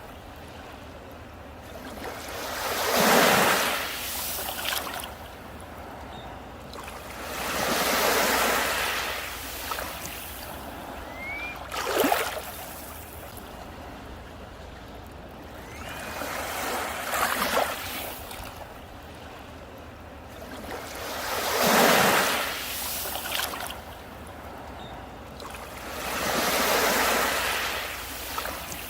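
Sea waves breaking on the shore, one surge of surf every four to five seconds, each rising and falling away, with a sharper crash about twelve seconds in.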